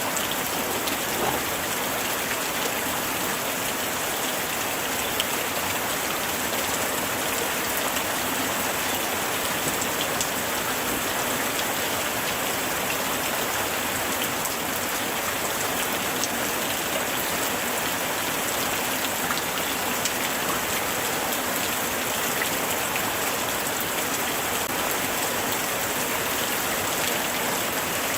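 Steady light rain falling, a dense even patter of drops striking surfaces with scattered individual drip ticks.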